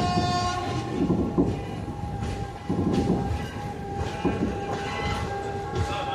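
Passenger train running slowly through station trackwork, its wheels knocking over rail joints and points under a rumbling noise, with a long steady high tone held throughout.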